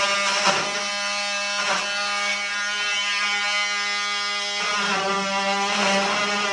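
Electric jigsaw running with a steady high motor whine. Its note drops slightly and becomes unsteady about two-thirds of the way through.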